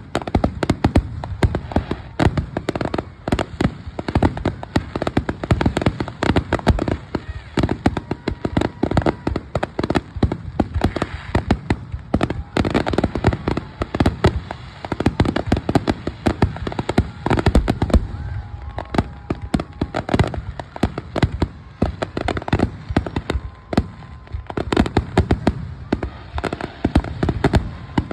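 Fireworks finale: a rapid, continuous barrage of bangs and crackles, many bursts a second.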